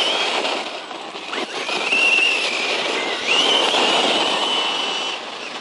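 Brushless electric motor of a 1/10 scale RC truck whining at high pitch in about three bursts of throttle, the pitch gliding up as each burst begins, over the noise of its tyres churning soft dirt. It fades near the end.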